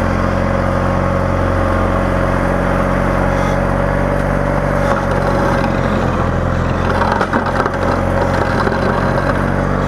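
Garden tractor's engine running steadily while plowing snow, with a few short knocks about seven seconds in.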